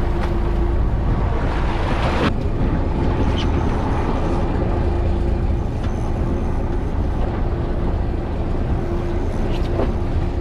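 Fishing boat's engine running steadily, a low rumble with a faint steady hum, under wind on the microphone. A short loud rush of noise comes about two seconds in.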